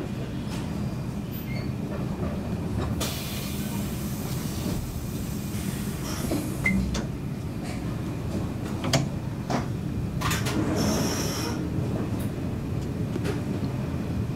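Passenger train's running gear heard from inside a coach as it moves off: a steady low rumble with scattered knocks from the wheels on the track. There are two spells of hiss, one about three seconds in and a higher one with a thin whistle-like tone about ten seconds in.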